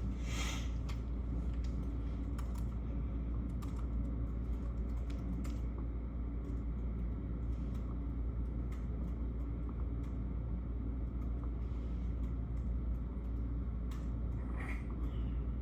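Computer keyboard typing, scattered clicks over a steady low rumble, with a brief hiss just after the start and another near the end.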